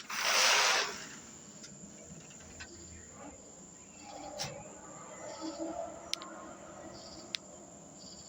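Faint insects chirping, opening with a short, loud rush of noise that lasts under a second.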